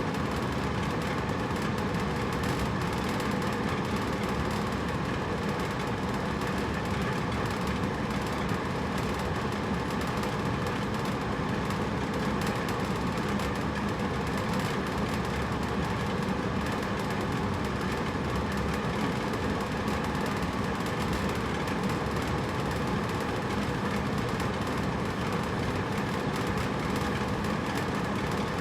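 Hotel room air conditioner running steadily: an even whoosh of moving air with a faint low hum from its fan and motor, unchanging throughout.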